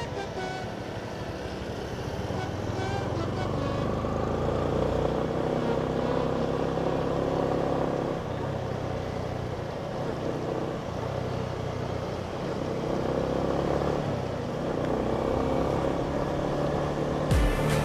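Yamaha Sniper 155's single-cylinder engine running while riding, its note slowly rising and falling with the throttle, over road and wind noise.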